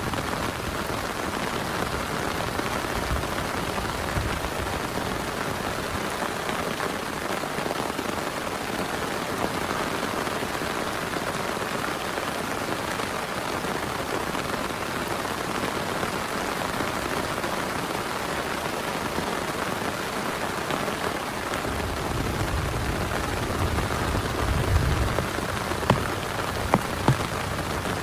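Heavy rain falling steadily as an even hiss. A low rumble joins it about three quarters of the way through, and a few sharp, loud drips or taps land near the end.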